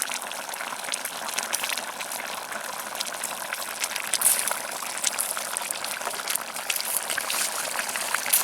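Wood campfire crackling, with many short sharp pops over a steady hiss.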